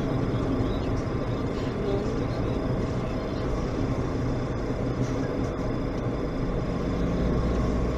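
Steady vehicle engine and road rumble from a moving vehicle, with no impact or sudden event.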